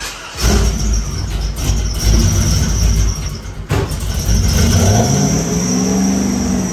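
LS1 5.7-litre V8 firing up about half a second in and running loud, then revving with the pitch climbing around five seconds in. A steady high-pitched whine sits above the engine note.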